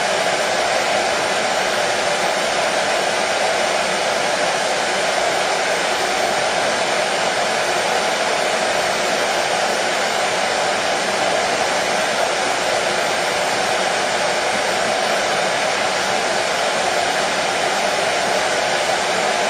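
Hair dryer running steadily, an even whooshing rush of air with a strong hum in the middle, unchanging throughout.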